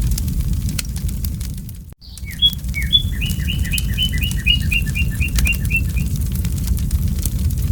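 Campfire crackling over a steady low rumble, cutting out briefly about two seconds in. A songbird then sings a rapid run of repeated notes, about four a second, falling slightly in pitch, for some four seconds.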